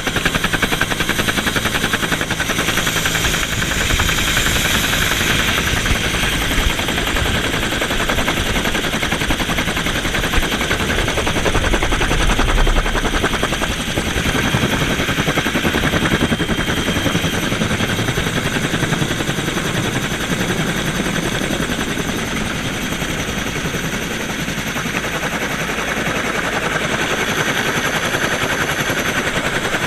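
Bell UH-1H Huey helicopter running: the rapid, even chop of its two-blade main rotor over the steady whine of its turboshaft engine.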